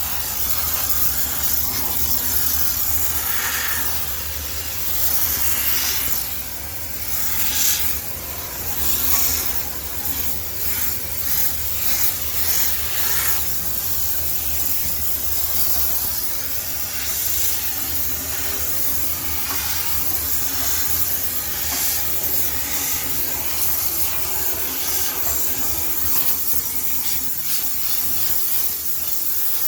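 High-pressure steam sterilizer jetting steam into a washing machine: a steady hiss that surges louder several times between about five and ten seconds in, over a steady low hum.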